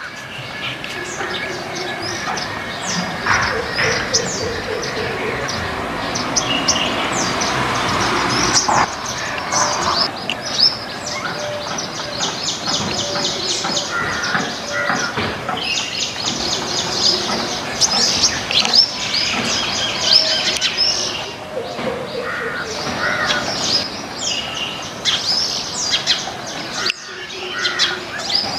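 Several garden birds chirping and twittering over one another, a dense stream of quick high chirps and rapid trills.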